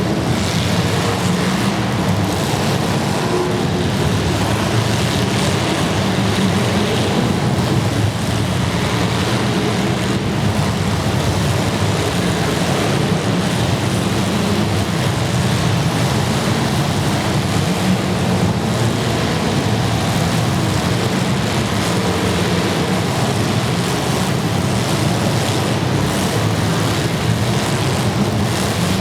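Demolition derby car engines running together, a loud, steady, dense low rumble.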